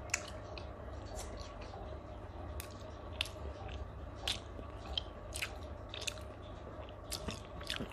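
Close-up chewing of grilled chicken eaten by hand: many short wet mouth clicks and smacks scattered through, over a steady low background hum.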